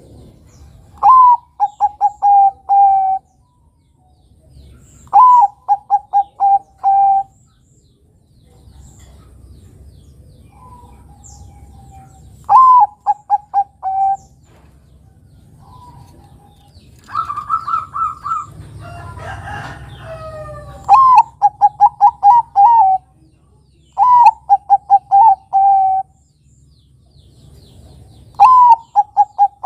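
Zebra dove (Bangkok-type perkutut) cooing: six phrases, each a higher first note followed by a quick run of five or six short coos, repeating every few seconds. About two-thirds through there is a longer, rougher jumble of sliding calls.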